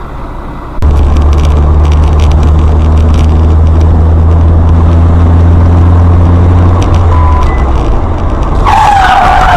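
Road vehicle's engine running at a steady low drone under road noise, as recorded by a dashcam, cutting in abruptly about a second in. A short beep sounds later.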